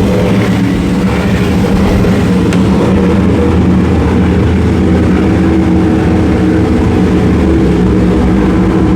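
Motorboat engines running with a steady low drone; a higher engine note joins in through the middle.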